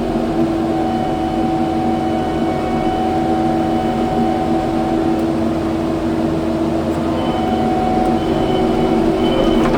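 Kubota skid steer's diesel engine running steadily under the operator, with a slight shift in its pitch near the end.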